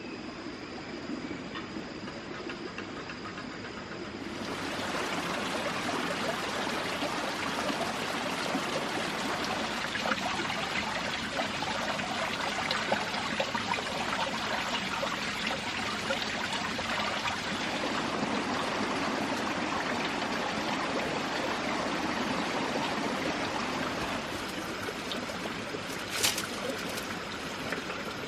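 Steady rushing of flowing water, louder from about four seconds in, with one sharp click near the end.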